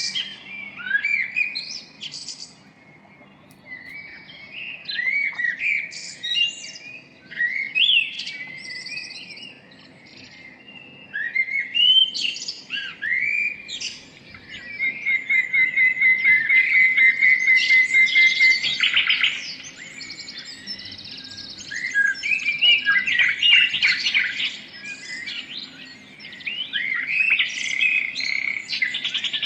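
Several small birds chirping and singing together, a busy mix of short whistles, chirps and trills, with a fast run of repeated notes about halfway through.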